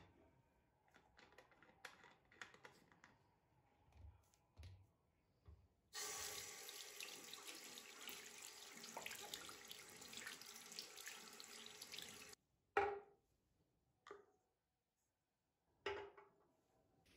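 A tap running into a sink for about six seconds, then shut off abruptly. Small clicks and thumps of handling come before it, and a sharp knock follows just after it stops, with two softer knocks later.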